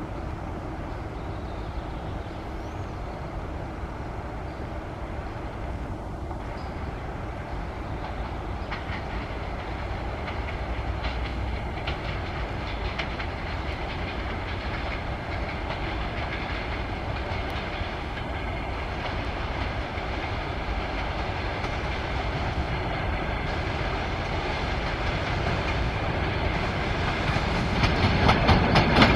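A train approaching on the line: a steady rumble that slowly grows louder, then swells sharply near the end as the train comes close.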